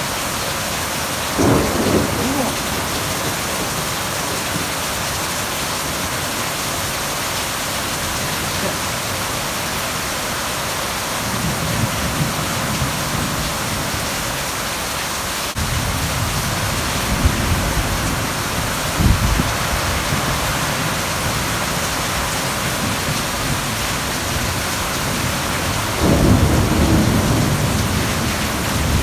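Heavy thunderstorm: rain pouring down in a steady hiss, with rolls of thunder rumbling over it. There is a short roll about two seconds in, longer ones through the middle, and the loudest near the end.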